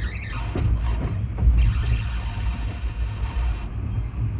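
Mugunghwa-ho passenger train running, heard from inside the coach: a steady low rumble of wheels on rail and car body, swelling briefly about a second and a half in.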